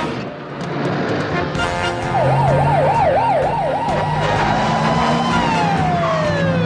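Vehicle siren wailing: from about two seconds in it yelps rapidly up and down in pitch, then holds a single tone that slides steadily down near the end.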